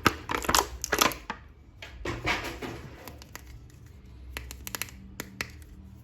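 Close-up clicking and scratching of a plastic toy being handled, dense at first, then a scrape about two seconds in and a few sharp separate clicks near the end.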